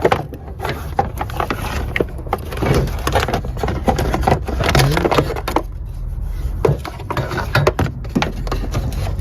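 Plastic battery tray being worked into position in a car's engine bay: irregular knocks, clicks and scraping of hard plastic against the body, over a steady low rumble.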